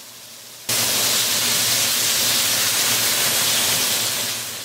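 Cubed chicken breast frying in hot oil in a wok: a steady sizzle that jumps sharply louder about a second in, as the marinade from the bowl hits the hot pan, then eases off a little near the end.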